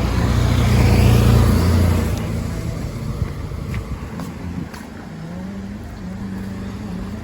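A motor vehicle passing close by, its engine and road noise swelling to a peak about a second in and fading away. It is followed by a softer, steady engine hum.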